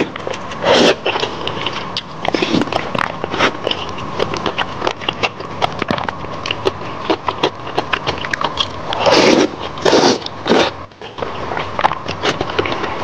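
Close-miked eating: wet chewing and sticky mouth clicks, many in quick succession, with a few longer, louder mouth sounds between about nine and eleven seconds in.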